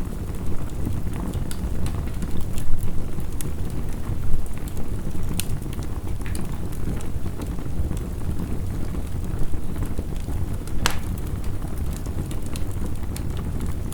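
Wood fire crackling, with irregular sharp pops, one louder near the end, over a steady low rush of heavy rain.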